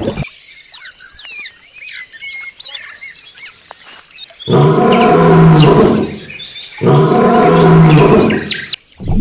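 Birds chirping with quick high whistles for about four seconds, then two long, loud, deep-pitched animal calls, each about a second and a half, with a short gap between them.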